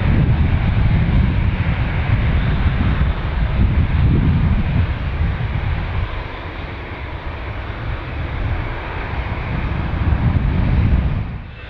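Airliner jet engine noise, a heavy low rumble that eases in the middle, swells again and then cuts off abruptly near the end.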